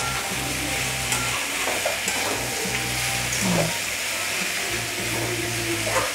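Cauliflower florets and potato pieces sizzling steadily in hot mustard oil in a metal kadai, stirred and turned with a metal spatula.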